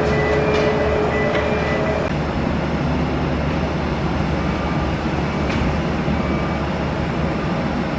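Steady rumble and hiss of jet aircraft engines, with a faint whine that stops about two seconds in.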